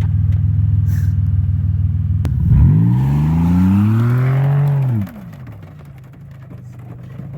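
Buick Century's GM 3.1 V6 running loudly with its exhaust torn off. It idles with a steady low drone, revs up about two and a half seconds in, holds briefly and drops back near the middle. The sound then goes quieter until the low drone returns near the end.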